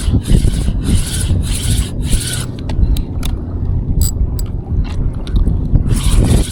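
Rhythmic scraping close to the microphone, about three strokes a second, fading out for a few seconds midway with a few sharp clicks, then starting again near the end, over a steady low wind rumble.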